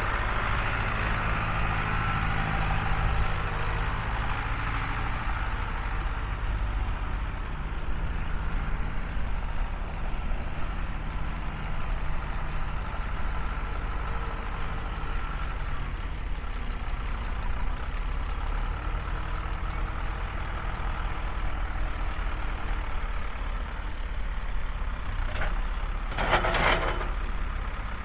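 Valtra C110 tractor's diesel engine running steadily at low speed, with a few sharp knocks near the end.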